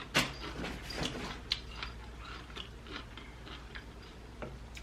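Close-miked biting and chewing of a sauced mango habanero chicken wing. A loud bite comes just after the start, then a run of small wet clicks and crunches that thin out in the second half.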